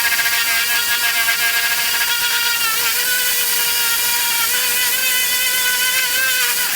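A handheld electric power tool's motor running with a steady whine, its pitch dipping slightly now and then as it takes load.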